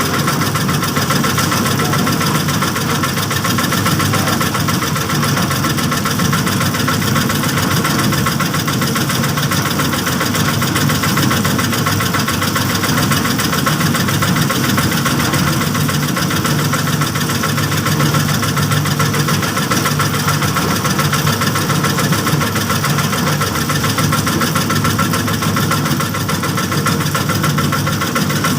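A small engine on a concrete-pouring rig running steadily at an unchanging speed.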